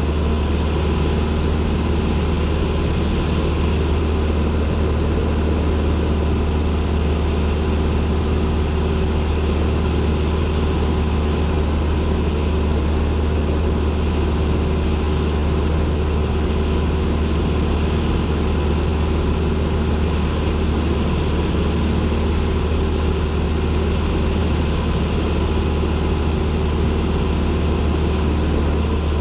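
Cessna 172N's four-cylinder piston engine and propeller running at a steady, unchanging pitch in flight: a loud, constant drone.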